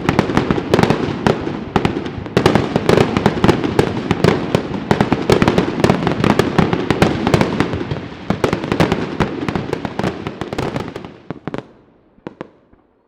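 A dense, rapid string of firecrackers exploding, a continuous crackle of sharp bangs that thins to a few scattered last pops about twelve seconds in and then stops.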